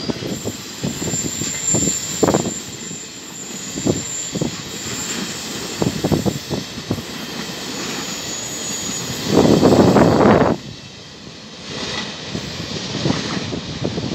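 Regional passenger train hauled by an E464 electric locomotive rolling through the station, its wheels clacking over rail joints and points at irregular intervals, with a thin high whine in the first half. A louder rushing burst comes about nine seconds in and lasts about a second.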